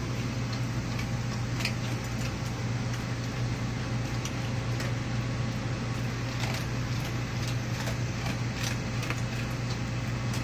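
Steady low mechanical hum with a constant drone, and a few faint clicks scattered through it.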